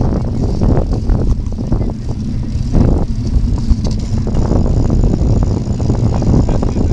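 Wind buffeting the microphone of a camera on a moving bicycle, a dense, uneven low rumble, mixed with tyre noise on the trail.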